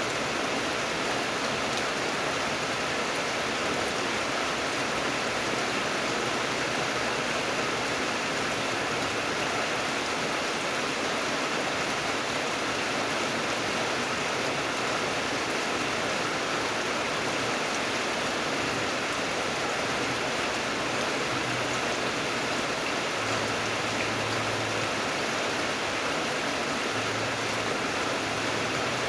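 Steady rain falling, a continuous even hiss with no breaks or swells.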